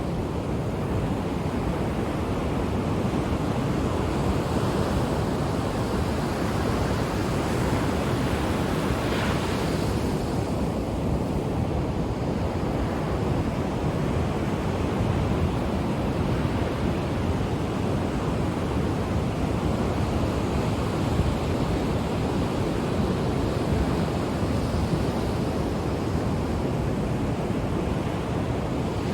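Ocean waves breaking and washing on the shore: a continuous rush of surf at a fairly even level, heaviest in the low end.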